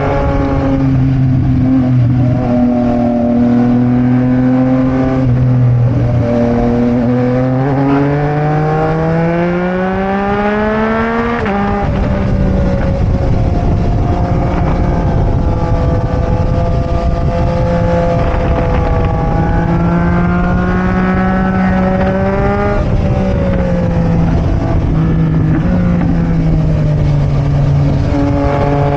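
Sport motorcycle engine heard from onboard, accelerating with its pitch climbing steadily for several seconds, then dropping suddenly at an upshift about 11 seconds in. After that it runs at a steady pitch with small rises and dips as the throttle is eased and opened, over a rush of wind.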